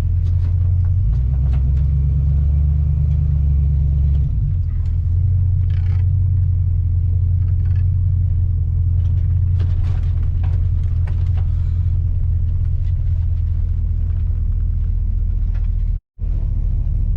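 Steady low engine and road rumble of a vehicle being driven, heard from inside. Its low drone shifts in pitch between about one and four seconds in, then settles again, and the sound cuts out for a split second near the end.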